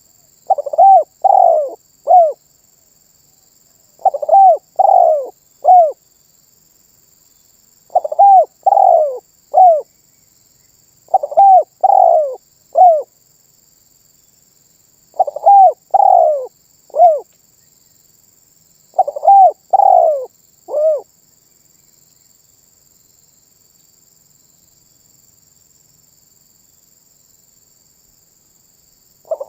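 Spotted dove (tekukur) cooing: six phrases of about four notes each, a phrase every three to four seconds, then a pause of about eight seconds near the end.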